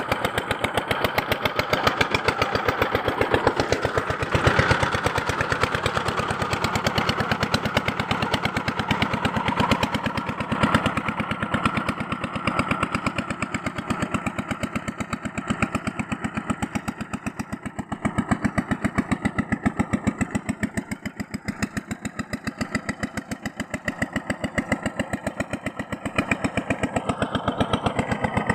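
A small motor-driven machine running steadily with a rapid, even pulsing, swelling and easing slightly in level.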